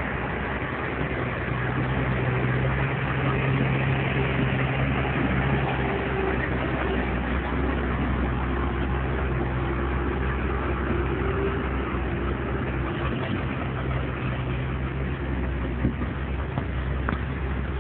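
A steady engine hum, with a constant rushing noise over it, unbroken throughout.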